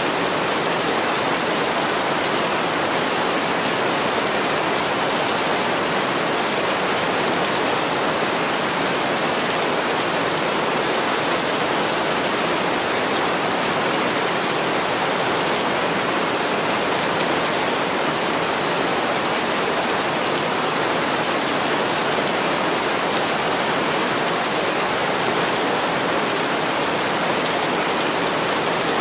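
Heavy rain falling steadily on a window, a dense, even hiss with no let-up.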